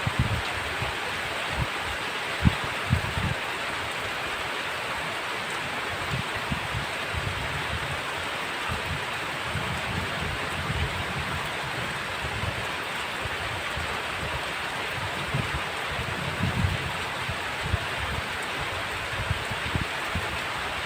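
Heavy rain falling steadily, a dense even hiss, with short irregular low knocks scattered through it, the sharpest about two and a half seconds in.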